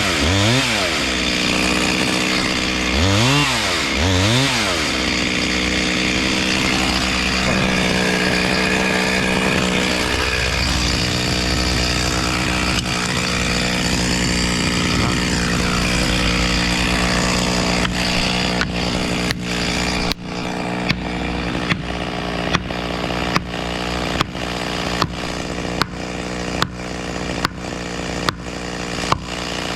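Two-stroke chainsaw revved up and down twice, then held at steady high revs. In the last third a sharp knock repeats about one and a half times a second over the running saw.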